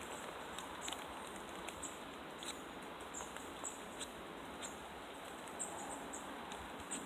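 Steady rain pattering in woodland: an even hiss with many small, irregular high ticks of drops.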